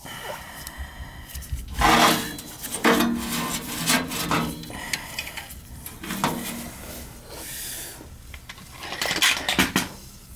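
Irregular metal clanks, knocks and scraping from handling furnace blower parts, a blower wheel and motor being fitted together, with a few knocks ringing briefly in the sheet metal.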